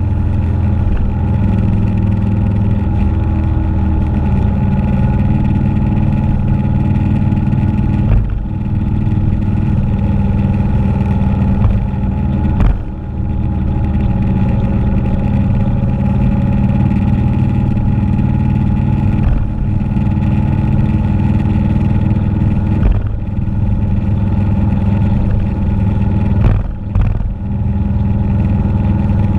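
Motorcycle engine running steadily under way, with several brief dips in its sound.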